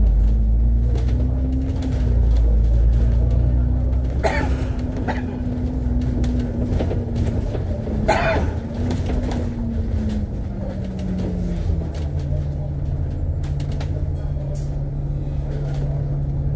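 Interior sound of an Alexander Dennis Enviro500 MMC double-decker bus in motion: a steady engine and driveline drone whose whine rises and falls, then settles to a lower steady pitch about two-thirds of the way through. Two short hisses come about four and eight seconds in.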